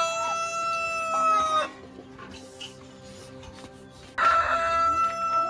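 Rooster crowing: a long, held crow that cuts off about a second and a half in, then a second long crow starting about four seconds in.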